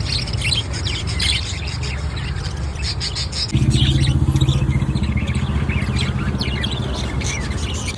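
Sun conures chirping in quick, short calls. A steady low hum runs underneath and gets louder about three and a half seconds in.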